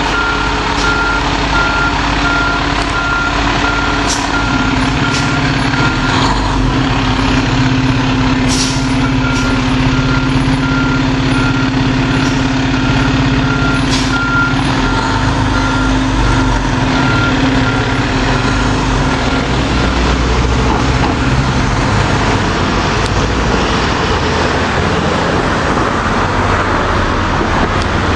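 Fire engine reversing: its backup alarm beeps steadily over the running engine, with a few short hisses, and the beeping stops about two-thirds of the way through.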